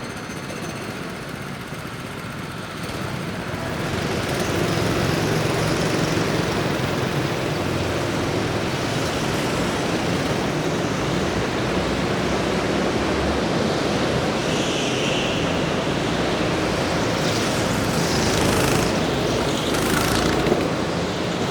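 Motorsport vehicle engine noise, a dense rumble that builds about three to four seconds in and then holds steady and loud.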